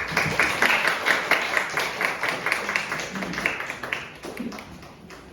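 Audience applauding, dense clapping that thins out and dies away over the last second or so.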